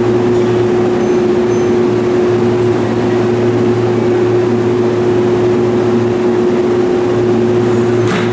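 Steady hum of an electric train standing at the platform, a constant mid-pitched tone over a low drone and background noise, with a short click near the end.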